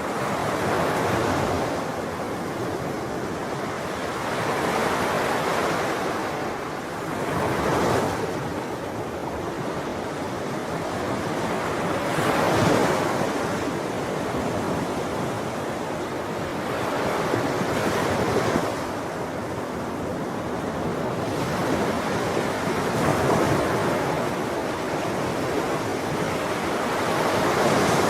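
Sea waves breaking and washing on a shore, a continuous surf noise that swells and recedes every few seconds, with the strongest break about halfway through.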